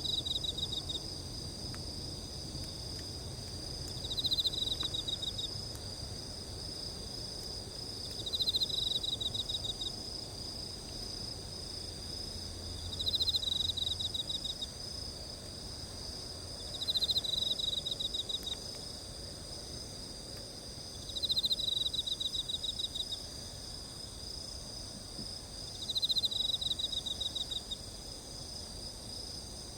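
Chorus of crickets and other insects ringing steadily at several high pitches. Over it, one insect gives a short pulsed trill of about a second, repeated roughly every four seconds.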